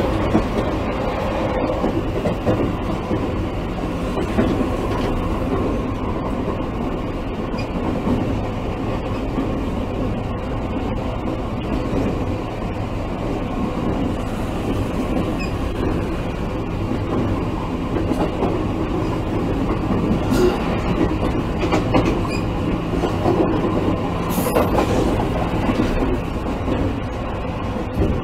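Running sound inside a JR East E653 series 1100-number electric train's motor car (MoHa E652-1102) travelling at speed: a steady rumble of steel wheels on rail with a few sharp clacks over rail joints.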